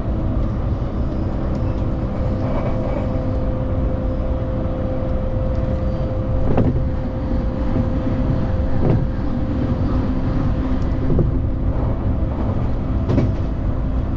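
Commuter train running on the track, heard from inside the car: a steady rumble with a faint humming tone. Four sharp clacks come about two seconds apart in the second half.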